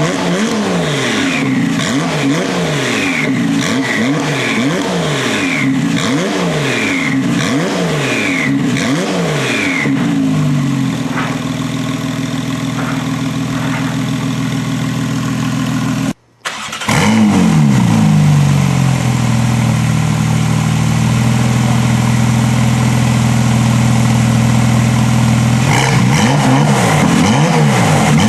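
Porsche 991.2 flat-six exhaust, engine revved in repeated quick blips about once a second, then held at a steady raised rpm. After a brief cut a little past halfway, the engine is held steady again, and the blips resume near the end.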